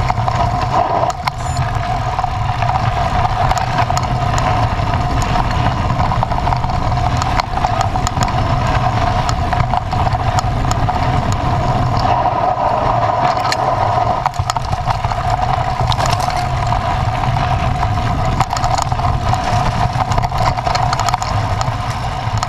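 Vehicle engine running steadily while driving over a sandy dirt track, with frequent short knocks and rattles from the rough ground.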